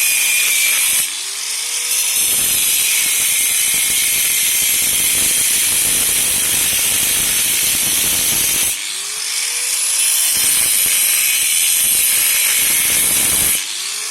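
Handheld electric power tool running hard under load, with a rapid rattling grind. It is let off briefly about a second in, again near nine seconds and just before the end, and each time the motor can be heard spinning back up.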